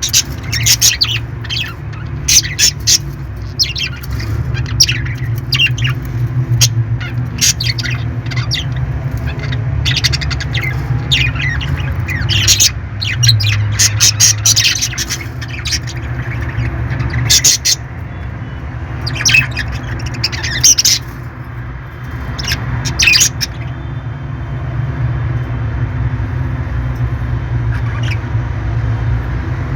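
Parrots squawking and chirping in many short, sharp calls, coming thick and fast and then thinning out near the end, over a steady low hum.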